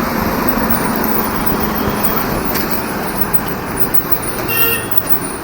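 Motorcycle riding on the road: steady engine and road-and-wind rush. A short horn beep sounds near the end.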